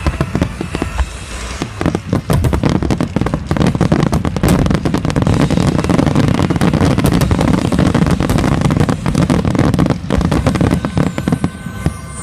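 Fireworks display barrage: rapid, overlapping bangs and crackles over a low rumble, densest from about two seconds in until near the end.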